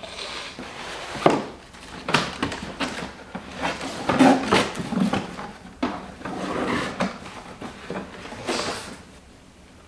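Irregular knocks, clicks and rustling as a Roomba robot vacuum and its cardboard and plastic packaging are handled during unboxing.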